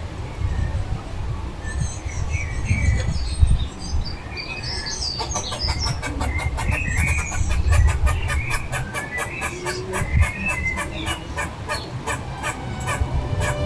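Small garden birds chirping and twittering in short scattered calls over a steady low rumble. About five seconds in, a fast, even ticking beat starts up alongside them.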